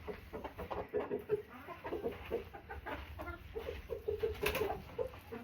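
Backyard hens clucking, a steady run of short low clucks, with one sharp click about four and a half seconds in.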